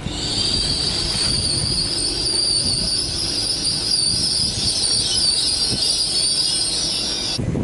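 Train at a station giving a loud, high-pitched metallic squeal of wheels or brakes, held steady over a low rumble and cutting off suddenly near the end.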